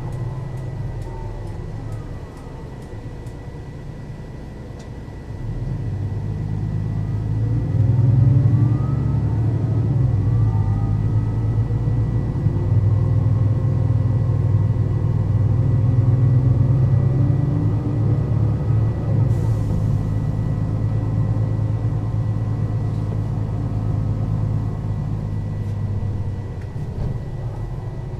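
Mercedes-Benz O 530 Citaro city bus engine running, growing louder about five and eight seconds in as the bus accelerates, with rising pitch through the ZF automatic gearbox's gears. It then runs steadily and eases off near the end. A short hiss comes about two-thirds of the way through.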